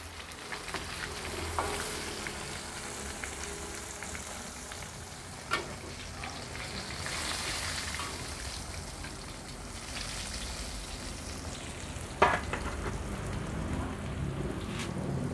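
Tempe frying in oil in a wok, a steady sizzle, with a few clacks of a metal spatula against the wok as the pieces are turned, the sharpest about twelve seconds in.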